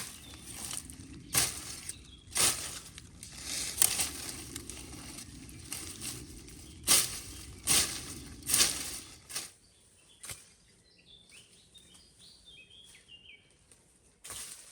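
Dry brush and branches crunching and rustling in a string of sharp bursts, which stop about nine seconds in. After that a small bird chirps a quick run of short, falling notes.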